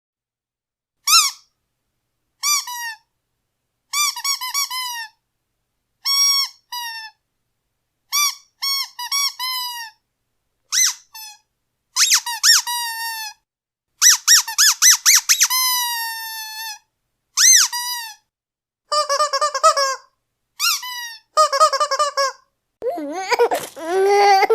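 Squeaky toy squeezed again and again in short runs, giving high, pitched squeaks that bend up and down, with clean silence between the runs.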